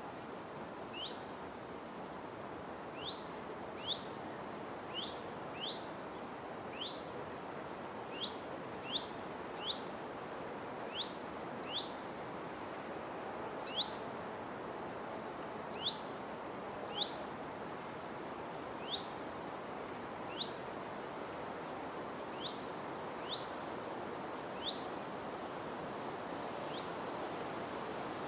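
A bird calling over and over in the forest: short, sharp, high two-note calls, a quick rising note with a falling one above it, about once a second, over a steady background hiss.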